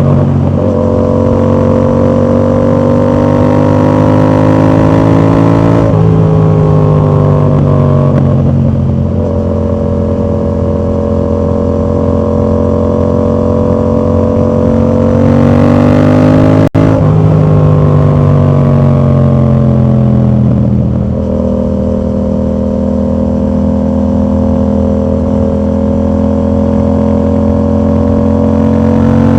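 Yamaha MT-07 parallel-twin engine with a dB killer fitted, running under load. Its pitch climbs slowly and then drops several times, as on upshifts or easing off. There is a momentary dropout about two-thirds of the way through.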